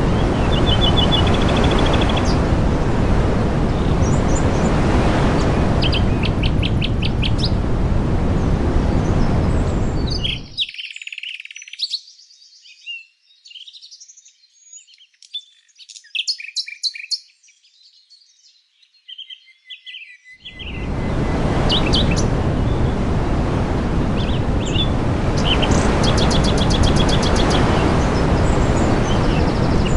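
Small birds chirping and twittering in short repeated trills over a loud, steady rushing noise. For about ten seconds in the middle the rushing noise cuts out suddenly, leaving only a few clear, quieter chirps before it returns.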